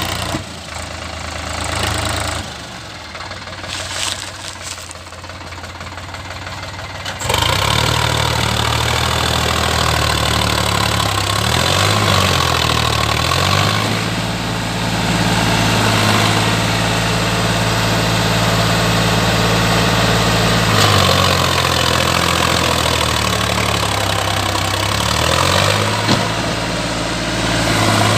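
Sonalika Sikandar DI 50 RX tractor's diesel engine running, fairly subdued for the first seven seconds, then suddenly much louder. Its pitch dips and climbs again twice as it is revved, as the loaded tractor works to get out of mud.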